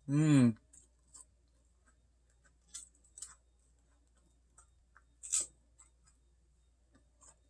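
A short hummed 'mmm' that rises and falls in pitch, then a few scattered crunches and mouth clicks of chewing a Ritz cracker spread with cheese ball, the loudest crunch about five seconds in.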